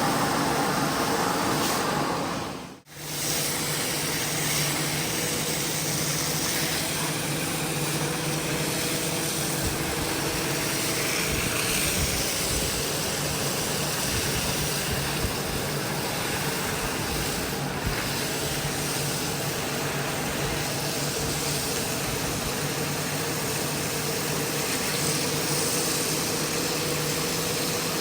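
Steady motor noise from carpet-cleaning machinery with a low hum, cutting out briefly about three seconds in before carrying on.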